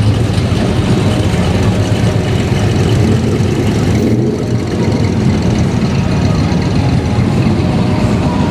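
A vehicle engine running steadily, close to idle, against a loud, continuous background din.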